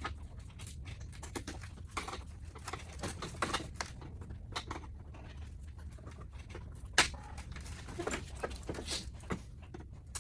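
Scattered light clicks and taps of truck grille parts and clips being handled, with one sharp click about seven seconds in, over a low steady hum.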